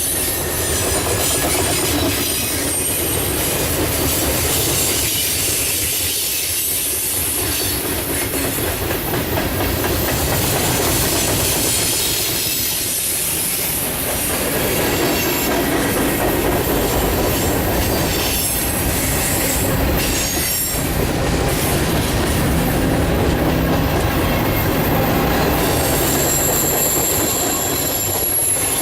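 Cars of a long mixed freight train rolling past at close range, wheels clacking over the rails. Thin high-pitched wheel squeal comes and goes, clearest near the end.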